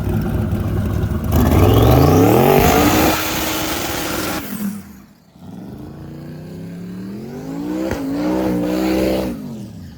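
Drag race car engine revving hard, its pitch climbing, with tyre noise, then dropping off about four and a half seconds in. It revs up again from around five and a half seconds, with a sharp break near eight seconds, before falling away just before the end.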